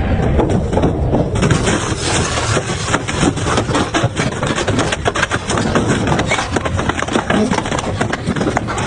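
Double-shaft industrial shredder running and tearing through metal motorbike parts: a steady grinding din dotted with many sharp cracks and snaps.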